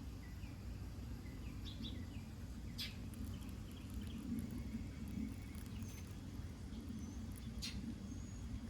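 Outdoor garden ambience: small birds giving scattered short chirps and a few thin high whistles over a steady low background rumble, with two brief sharp ticks, about three seconds in and near the end.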